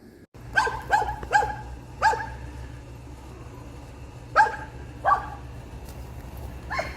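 A dog barking: about seven short, separate barks, each dropping in pitch, at uneven intervals, over a steady low hum.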